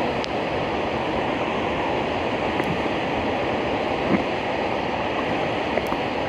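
Steady rush of flowing river water, with a few faint small knocks.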